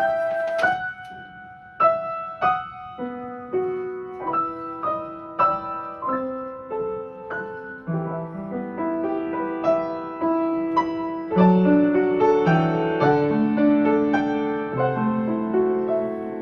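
Piano playing a slow melody of single struck notes that fade, joined from about two-thirds of the way in by fuller chords with lower bass notes.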